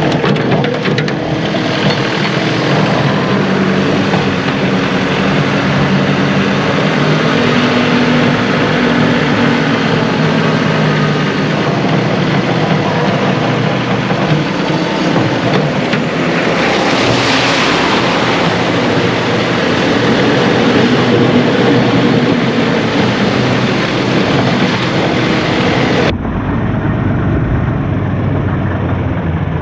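John Deere 2038R compact tractor's three-cylinder diesel engine running steadily while working, its pitch shifting up and down with load. About 26 seconds in, the sound changes abruptly to a duller recording of the same engine.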